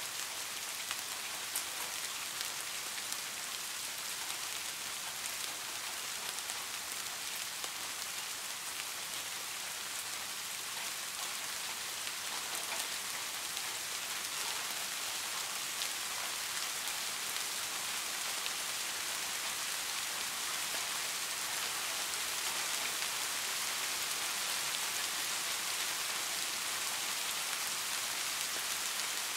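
Steady rain falling: an even hiss with faint scattered drops ticking through it.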